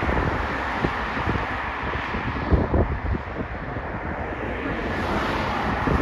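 Strong wind buffeting the microphone in gusts, over a steady rushing roar.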